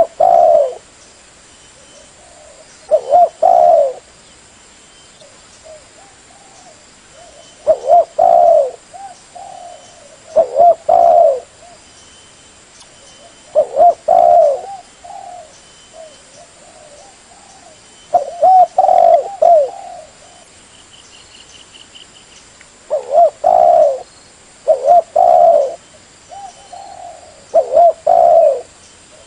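Spotted dove cooing: loud phrases of two or three coos, repeated every three to five seconds, with quiet between them.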